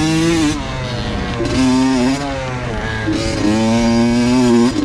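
Two-stroke dirt bike engine revving in three surges, the throttle opened and eased off between them.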